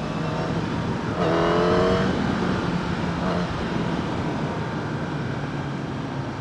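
Kawasaki ZX-10R's inline-four engine running while riding, with a brief rising rev about a second in as it accelerates, then a steady engine note.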